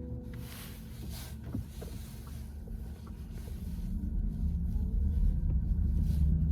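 Road and tyre rumble heard inside the cabin of a VW ID.4 electric car, growing louder about four seconds in.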